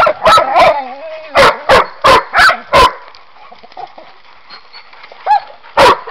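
Dog barking in short, sharp barks: two at the start, a quick run of five about one and a half seconds in, then a pause of about three seconds before another bark near the end.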